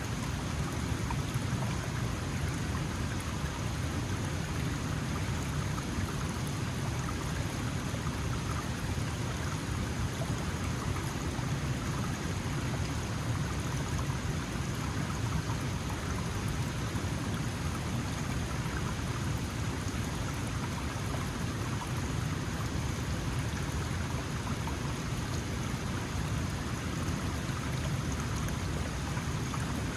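Small mountain stream flowing over stones, a steady rushing babble with a deep low rumble.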